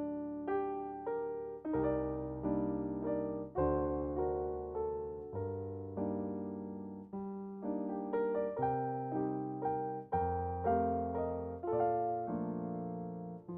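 Solo piano music at a moderate, unhurried pace: a low bass note or chord is struck every one to two seconds under a higher melody line, each note ringing and fading before the next.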